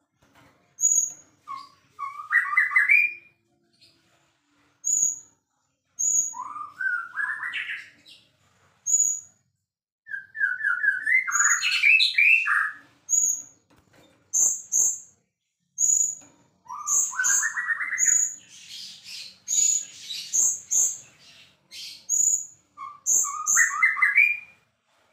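White-rumped shama singing: loud rising whistled phrases every few seconds, among short high piping notes repeated about once a second, with a busier chattering stretch past the middle.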